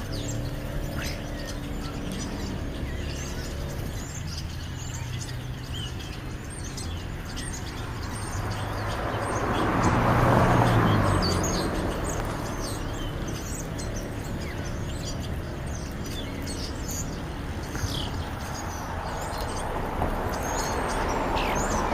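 Flock of European starlings chirping and chattering in many short, high calls. Under them a motor vehicle hums, and one passes, swelling and fading about ten seconds in.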